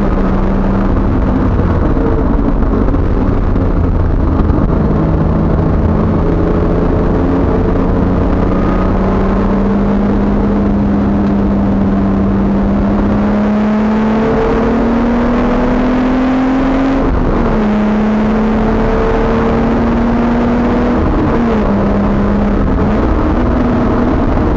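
Race car's engine heard from inside the stripped, roll-caged cabin, running under load on a circuit lap. Its pitch climbs slowly for many seconds, then drops sharply with an upshift about two-thirds of the way through, and rises and drops again twice near the end, over steady road and wind noise.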